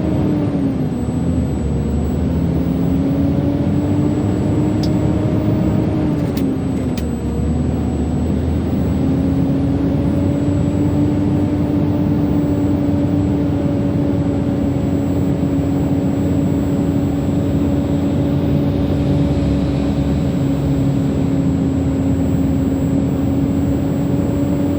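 Heavily loaded truck's diesel engine pulling uphill, heard from inside the cab. The engine note dips about a second in and again about seven seconds in, then holds steady.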